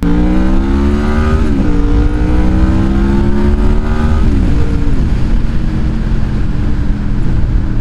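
Honda VFR motorcycle's V4 engine accelerating hard. Its pitch climbs, drops at an upshift about a second and a half in, climbs again and drops at a second upshift around four seconds in, then runs steadier at speed.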